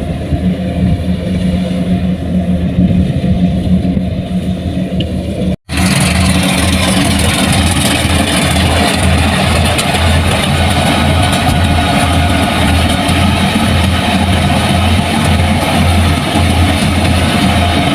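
Heavy diesel farm-machine engine running steadily under load. About five and a half seconds in it cuts out abruptly for an instant, then comes back louder and rougher, with a deeper pulsing hum.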